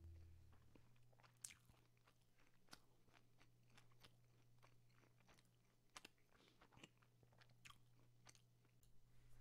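Near silence: room tone with a faint steady low hum and a few faint, irregularly spaced clicks.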